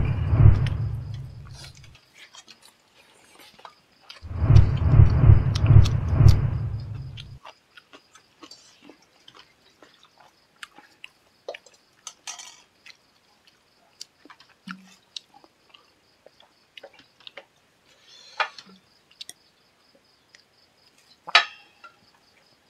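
A person eating close to the microphone. There are two loud stretches of heavy, wet chewing in the first seven seconds, then only scattered faint mouth clicks and smacks.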